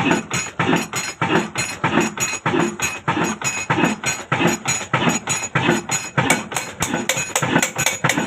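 Old Ruston 22 HP stationary diesel engine running slowly, its exhaust beats coming evenly at about three to four a second.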